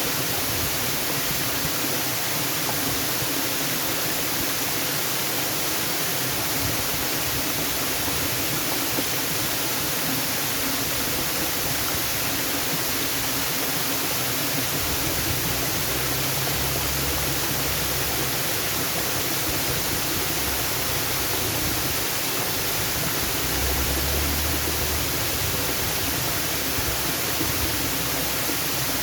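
Waterfall: an even, steady rush of falling water, with a low rumble that comes and goes in the second half.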